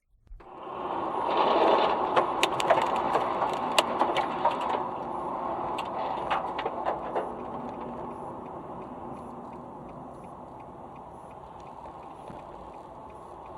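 Vehicle noise heard from a car, loudest in the first couple of seconds. Sharp clicks and knocks are scattered through it between about two and seven seconds in, then it settles into a steadier, quieter run.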